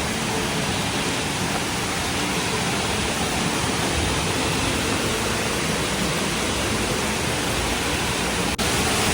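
Waterfall close by: a steady rush of falling water, with a brief dropout about eight and a half seconds in.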